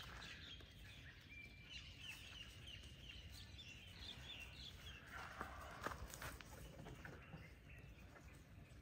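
Faint outdoor background with distant bird chirps: a run of short high notes in the first few seconds, then another brief call about five seconds in.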